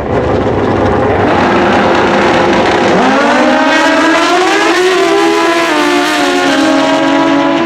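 Drag-racing motorcycle running hard down the strip. After a loud rush of noise, the engine note climbs from about three seconds in, with brief dips at each gear shift, then levels off near the end.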